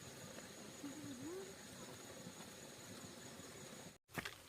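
Faint outdoor background with a steady high-pitched whine and a brief faint gliding call about a second in. The sound cuts out abruptly near the end, followed by a few sharp knocks.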